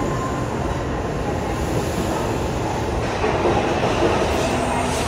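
N700-series Shinkansen bullet train moving alongside the platform, making a steady rushing noise with no clear rhythm.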